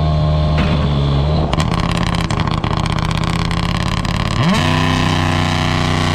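Rally car engine held at steady revs, with a rapid run of sharp crackles and pops for about three seconds. About four and a half seconds in, the revs climb quickly and then hold at a higher, steady pitch, as at a launch.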